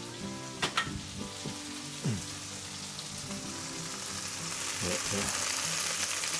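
Chicken frying in butter in a pan, sizzling with a steady hiss that grows louder toward the end. There are a couple of sharp clicks just under a second in and a short scrape about two seconds in.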